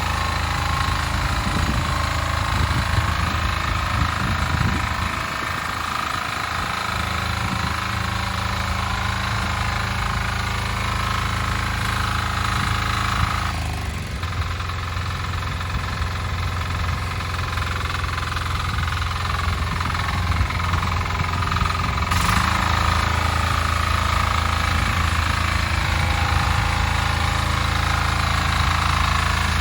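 Weima diesel walk-behind tractor's single-cylinder engine running steadily as it tills soil; its note shifts about halfway through and again a few seconds later.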